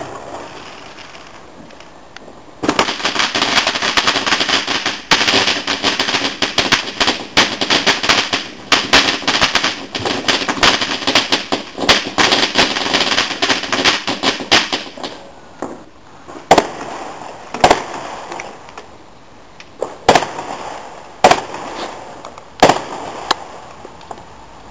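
Garden fireworks going off: a dense rapid crackle of many small bangs for about twelve seconds, then a string of about six separate sharp bangs a second or so apart.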